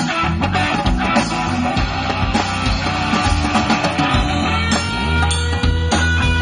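Live band playing a rock-style groove, with a drum kit beating steadily under guitar and bass.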